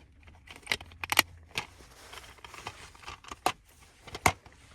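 A plastic DVD case being handled to show the disc: about half a dozen separate sharp clicks and knocks over faint rustling.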